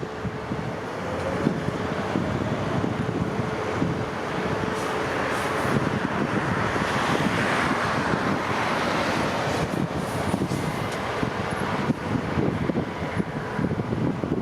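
Jet airliner engines, a broad rushing roar that swells to its loudest about halfway through and then eases, with wind buffeting the microphone.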